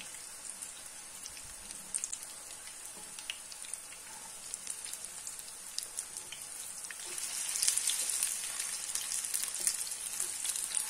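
Onion patties frying in hot oil in a pan: a steady sizzle with scattered pops and crackles, getting louder about two-thirds of the way in.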